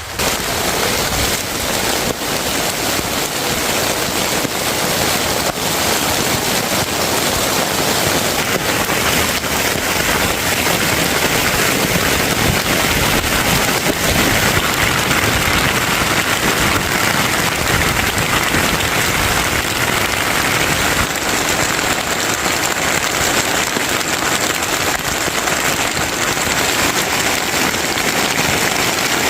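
Steady rain falling hard: a dense, even hiss flecked with countless small drop impacts.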